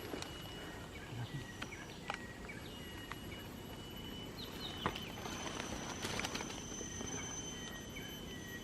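Night-time outdoor ambience of insects: steady high-pitched trilling tones with short, repeated falling chirps, and a few faint clicks.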